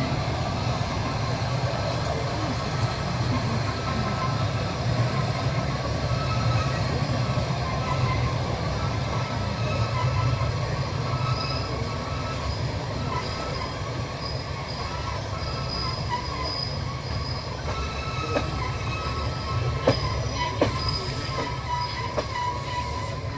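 Passenger train coach running along the track: a steady rumble of steel wheels on rail, with thin high squealing tones from the wheels. A few sharp clicks near the end.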